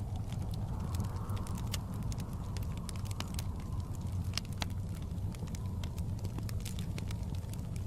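Fireplace crackling, with frequent sharp irregular pops over a low steady rumble, and snowstorm wind whooshing softly behind it, swelling about a second in and again near the end.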